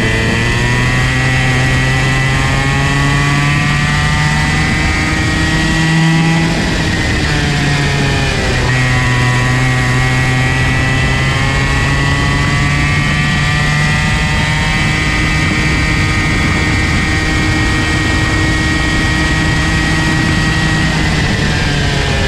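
Comer C50 50cc two-stroke go-kart engine running at speed. Its revs climb steadily, drop sharply twice around the corners about a third of the way in, build back up and hold high, then fall again near the end.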